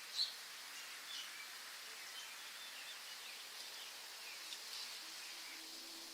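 Outdoor nature ambience: birds chirping in short, scattered calls over a steady high hiss, with one louder chirp just after the start.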